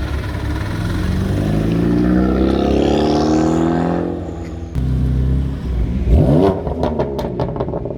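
Car engine accelerating hard, its pitch climbing steadily for a couple of seconds. Then, after a cut, a quick sharp rev followed by a few sharp cracks.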